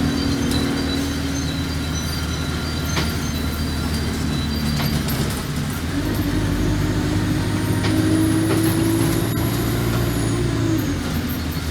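Alexander Dennis Enviro200 bus engine running steadily, then rising in pitch about halfway through with a high whine climbing with it, and dropping back shortly before the end, as the bus gets under way.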